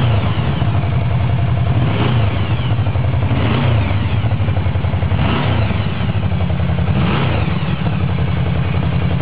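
Yamaha VMAX V4 engine through an aftermarket muffler, idling with a short throttle blip every couple of seconds, each a quick rise and fall in pitch.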